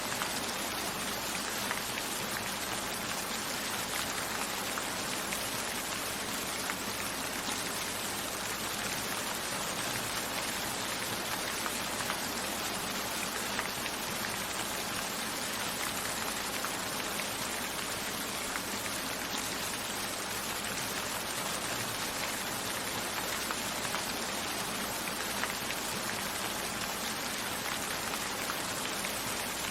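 Steady rain falling without a break, with individual raindrops ticking on a window.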